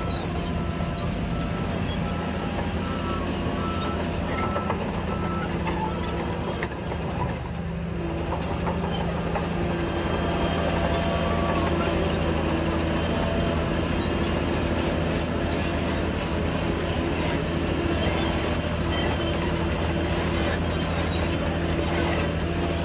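Diesel engine of a Shantui bulldozer running steadily under load, with light rattling over it; it gets a little louder about ten seconds in.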